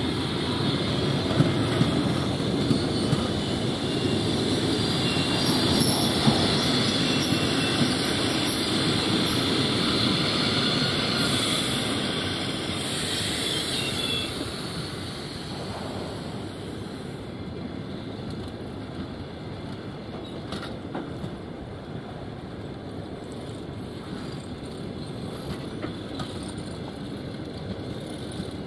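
Passenger train coaches rolling into a station behind an electric locomotive, wheels running over the rail joints with some high-pitched wheel squeal. The sound is loudest in the first half and eases after about fifteen seconds into a quieter rumble with scattered clicks as the train slows.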